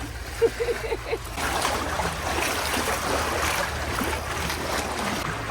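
Lake water splashing and lapping around a kayak, starting up about a second in and running on as a steady wash, over a low rumble.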